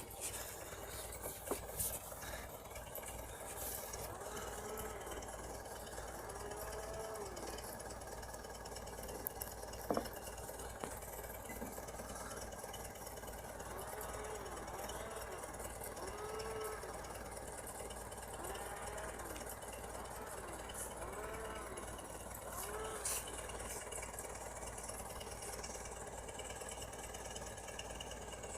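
Tractor engine running steadily with a low hum. Through it comes a call, repeated about every second and a half, that rises and falls in pitch, and there are a few sharp knocks, the loudest about ten seconds in.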